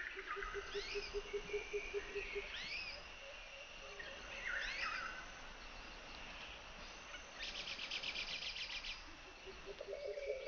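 Birds calling in the background: a few short swooping chirps, a low pulsing trill for the first two seconds or so, and a fast buzzy rattle a little over seven seconds in.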